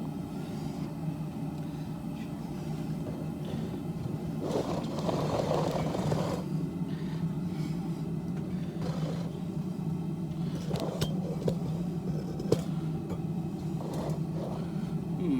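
Propane forge burner running with a steady rumble. A brief scraping noise comes about five seconds in, and a few light metal clinks follow later.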